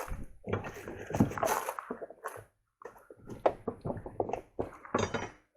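Loose trash and objects being rummaged through and moved about: irregular clattering and rustling with sharp knocks, stopping suddenly near the end.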